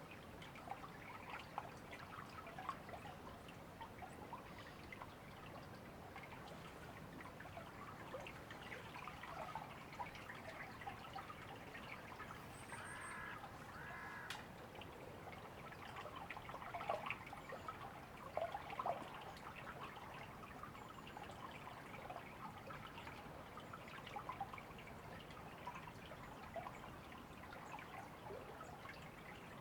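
A shallow river babbling and trickling steadily over stones, with small splashes throughout. Two short bird calls come about halfway through.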